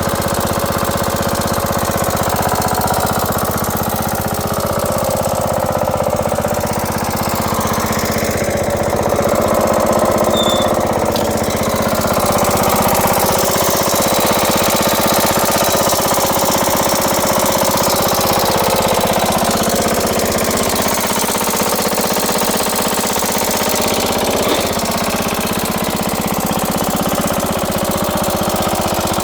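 Ariens 20 HP lawn tractor engine running steadily.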